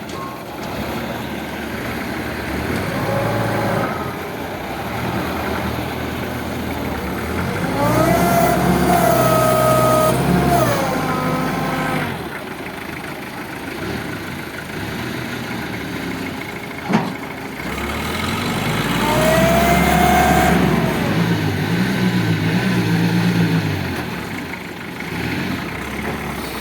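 Truck engine running while manoeuvring, revved up and held twice before dropping back to idle, with a sharp click partway through.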